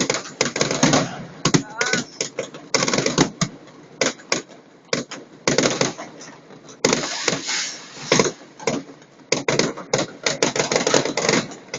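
Fireworks and firecrackers going off all around: a dense, irregular run of bangs and crackles, thickest about halfway through and again near the end.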